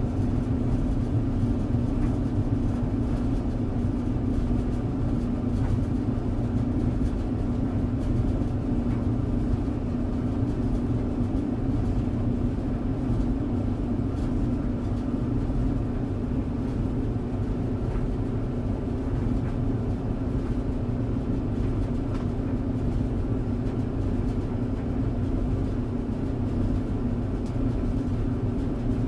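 Tumble clothes dryer running steadily: a constant low hum of drum and motor with a strong steady tone, and faint ticks now and then.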